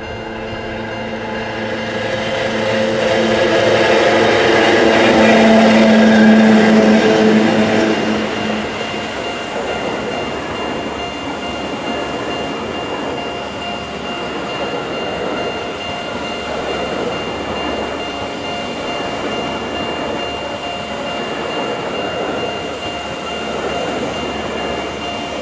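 Chichibu Railway Deki 300 electric locomotive passing close by with a steady hum that grows loudest about six seconds in and fades soon after. It is followed by the towed Tobu 9000 series cars rolling past with steady wheel-on-rail noise.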